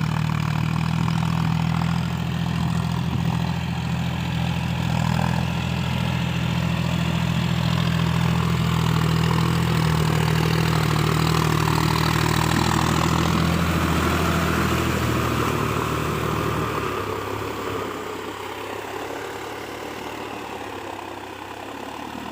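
Tractor engine running steadily while pulling a plough, then growing quieter over the last few seconds.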